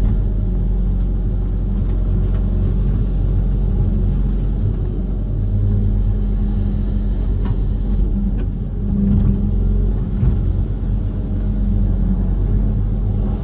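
Diesel engine of a Kobelco SK130 amphibious excavator running steadily under load, with a few light knocks.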